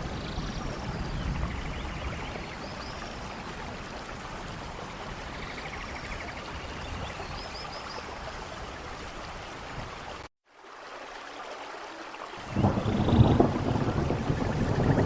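Steady heavy rain, cut to a brief silence about ten seconds in, then resuming more quietly before a loud low rumble of thunder swells near the end.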